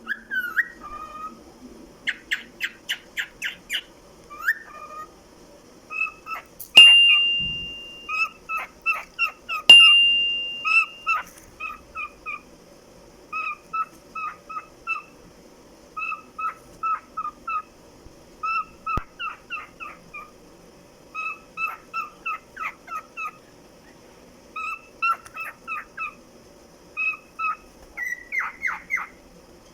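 Pet cockatiel singing: a long run of short, quick chirps in a repeating pattern, a few to the second. It is broken twice by a loud, held high whistle, the loudest sounds here.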